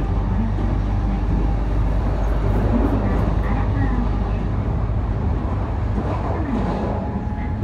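E531 series electric train running at speed, heard from inside the passenger car: a steady rumble of wheels on rail and the car body.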